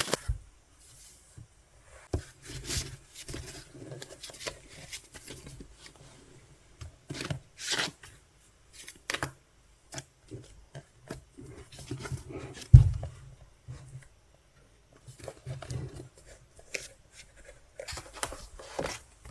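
Paper and plastic album packaging being handled and torn open, with irregular rustling, crinkling and small clicks, and one loud thud about thirteen seconds in.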